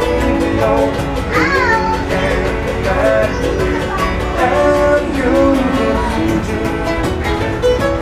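Live acoustic country-style music: a guitar strumming a steady rhythm under a melody with held and sliding notes.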